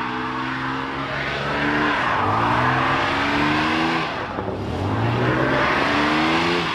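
Car engine accelerating hard through the gears. The pitch climbs steadily and drops at each upshift, about two seconds in and again just past four seconds, then climbs once more.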